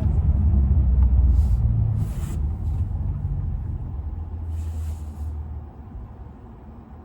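BMW i4 M60 electric car's synthesized drive sound, a deep low rumble that fades away over the last few seconds, with a few short hisses above it.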